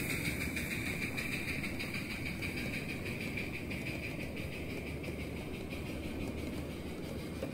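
A small 7.5-inch gauge switcher locomotive running on the track, with a steady high whine over a continuous rumble that slowly fades.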